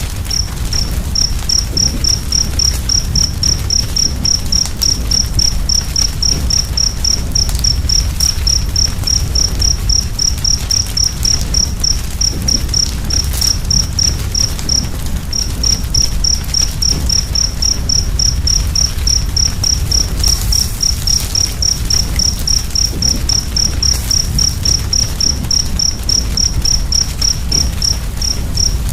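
A cricket chirping in a steady, fast rhythm of about four to five high chirps a second, breaking off briefly near the start and about halfway through. Beneath it is the steady low rumble of a crackling fire with a few faint pops.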